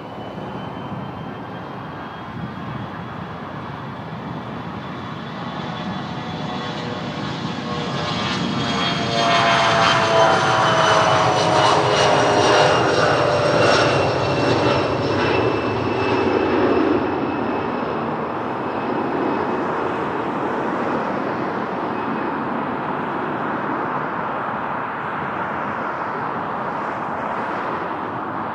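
A fixed-wing aircraft passing close by, its engine tones sliding down in pitch as it goes past, loudest about halfway through and then fading. Steady wind noise on the microphone runs underneath.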